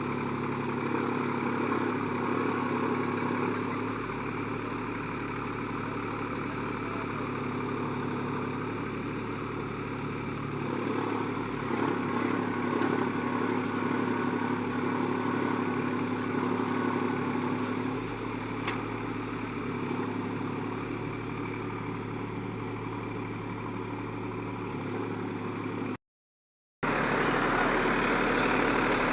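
Tractor's diesel engine running steadily under load as it tows a mud-stuck SUV out. There is a brief cut near the end, after which the engine comes back a little louder.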